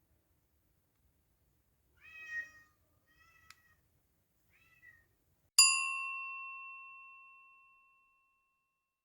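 A domestic cat meows once, then gives two fainter short calls, with a small click between them. A single bright ding then strikes and rings out, fading over about two seconds.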